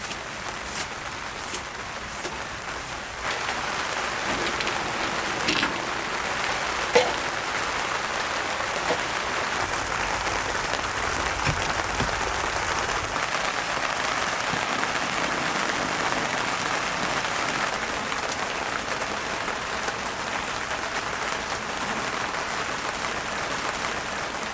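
Heavy rain falling steadily, a dense hiss of drops that grows heavier about three seconds in. A few sharp ticks of single drops stand out in the first seven seconds.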